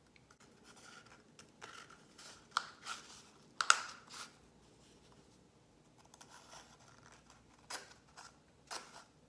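Thin twigs being pushed through punched holes in a cardboard toilet paper roll: scattered scratchy rustles and small clicks of stick against cardboard, the sharpest a little under four seconds in.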